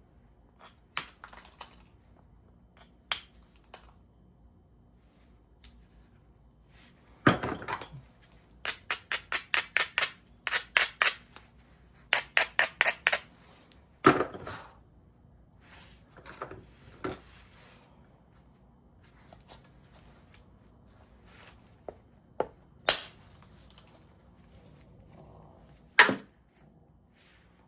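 Flintknapping: a percussor striking the edge of a stone blank with sharp knocks of varying strength. Between them come two runs of quick light taps, about six a second, in the middle of the stretch.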